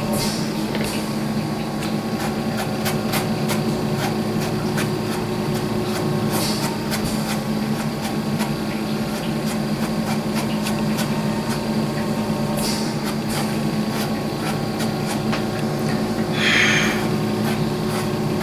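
A steady machine hum in a small room, with scattered light clicks and taps, and a brief hiss near the end.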